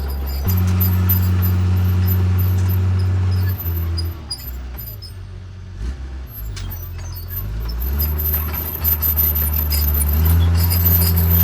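Heavy diesel earthmoving machine engine working under load. It rises about half a second in, eases off a little after three seconds, and builds up again in the last few seconds, with scattered knocks in the second half.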